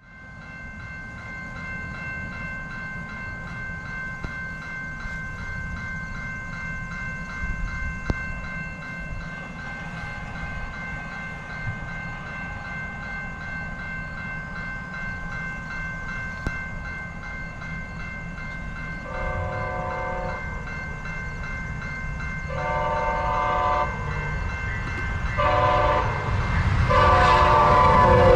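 An approaching train's rumble grows steadily louder, then the locomotive's air horn sounds four chorded blasts, long, long, short, long: the standard signal for a level crossing ahead.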